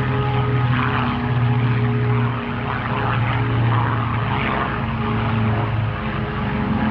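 Rolls-Royce Merlin piston engines of a WWII propeller warbird running steadily in flight, a continuous drone whose pitch shifts slightly a few times as the aircraft moves.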